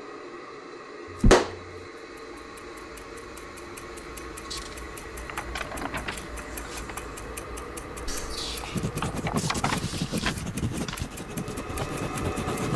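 One sharp, loud bang about a second in, then fast, even ticking over a steady hum. Sheets of paper rustle and are handled, louder in the second half.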